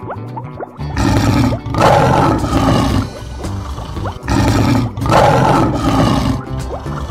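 Two lion roars, each about two seconds long, played as sound effects over light background music.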